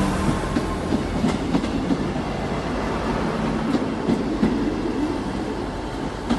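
Class 158 diesel multiple unit moving through the station: a steady diesel engine drone and wheel rumble, with irregular clicks as the wheels cross rail joints.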